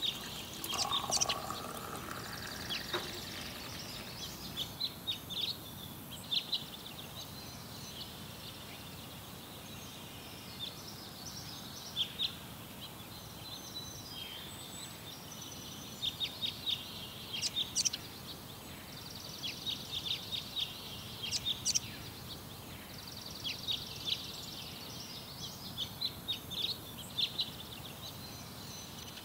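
Small birds chirping in clusters of quick, high calls over a steady background hiss.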